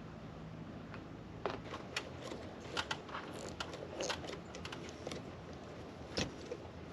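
Scattered light clicks and taps of small metal parts being handled, uneven and irregular, over a low steady hum that fades out about a second and a half in.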